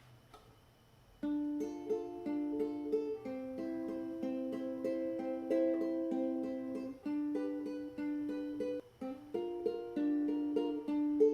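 A plucked string instrument playing a solo intro, picked notes and chords in a steady, repeating rhythm, starting about a second in.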